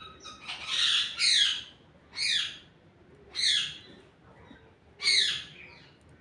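A bird calling in short calls that each slide down in pitch, five in all, the first two close together about a second in.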